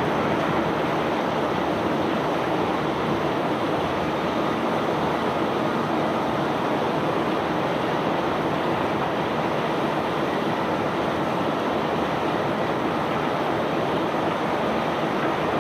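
Steady, even rushing noise of a self-unloading barge discharging bulk cargo, its machinery running with a faint low hum underneath.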